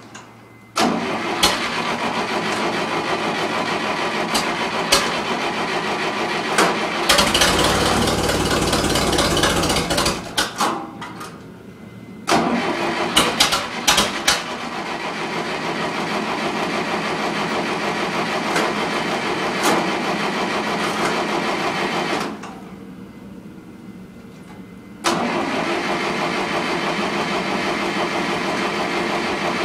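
International Harvester 504 tractor's four-cylinder gas engine being cranked over by the starter on a cold start, in three long bouts with short pauses between them, without settling into a steady run; the owner thinks he may have flooded it.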